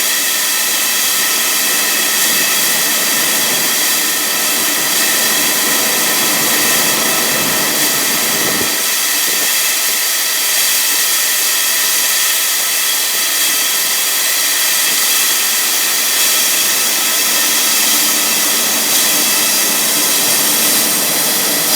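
Steady machinery noise of a hydraulically powered live-bottom grain trailer unloading corn into a pit: the belt drive runs with a constant high whine over a rushing hiss, as the last of the load feeds out. A brief low rumble comes about eight seconds in.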